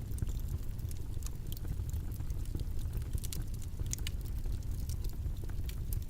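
Steady low rumbling background noise, with small scattered clicks and ticks sounding irregularly over it.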